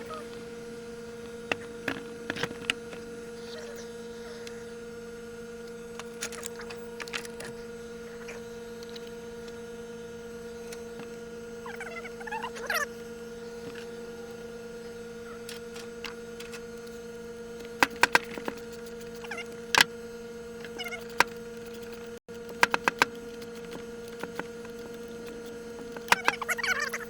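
Steady electrical hum, with scattered sharp clicks and clinks coming in small clusters.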